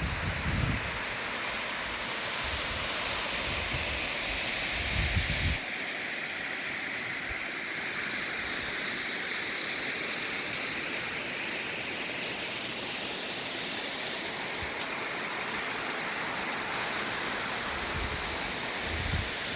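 Small waterfall, water splashing down in a steady rush. Low rumbles of wind on the microphone come in briefly at the start, around four to five seconds in, and again near the end.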